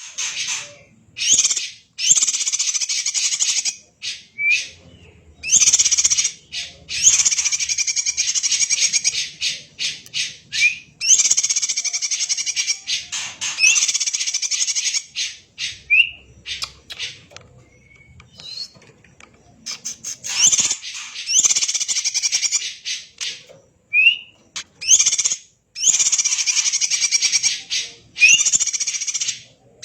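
Cucak ijo (green leafbird) singing loudly and continuously in long runs of fast, dense chattering song, each lasting one to three seconds, with brief rising whistle notes in the short gaps between runs.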